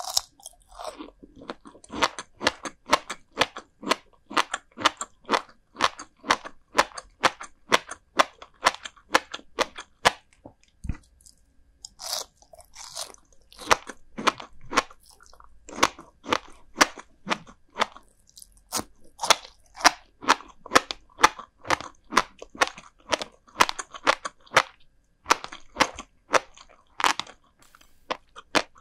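Close-miked chewing of salted herring roe (kazunoko), crisp crunching in a steady rhythm of about two bites a second, with two short pauses.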